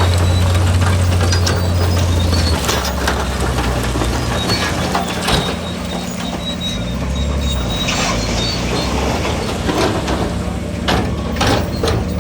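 Heavy diesel construction machinery running. Its strong low engine note drops about two and a half seconds in, and scattered clanks and knocks come in the second half.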